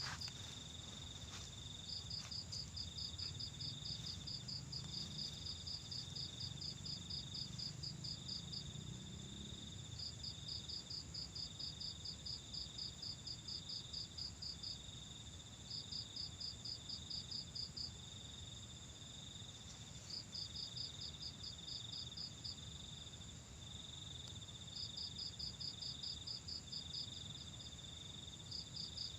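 Crickets calling: a high pulsing chirp, about four pulses a second, in runs of several seconds with short pauses, over a steady high insect buzz.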